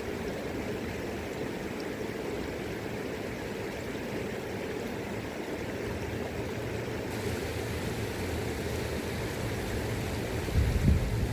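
River water flowing steadily. Near the end, wind gusts buffet the microphone with low rumbling thumps.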